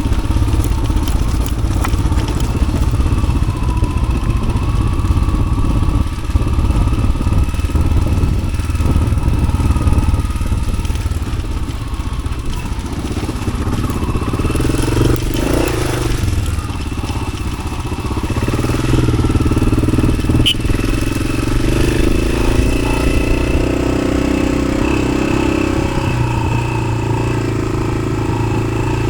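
Yamaha XT600's single-cylinder four-stroke engine running through an Arrow aftermarket exhaust as the motorcycle is ridden, the engine note shifting with the throttle, easing about halfway through and then holding steadier near the end.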